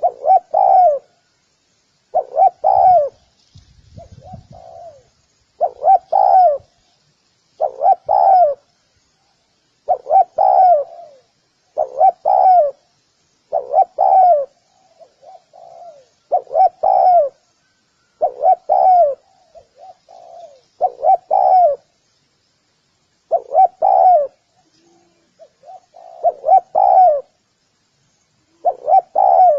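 Spotted dove cooing: the same short coo call repeated about every two seconds, with a few fainter calls in between.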